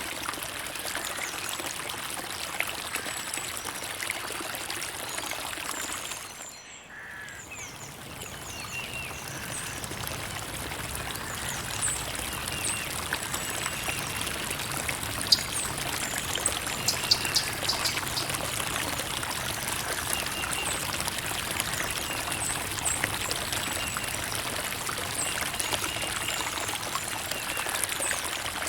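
Creek water trickling and pouring over rocks in a steady rush, dipping briefly about six seconds in. Short, faint bird chirps sound over the water through the second half.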